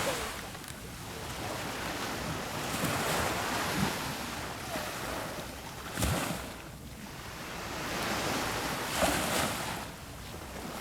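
Sea waves breaking and washing onto the beach, the surf swelling and ebbing every few seconds, with wind on the microphone.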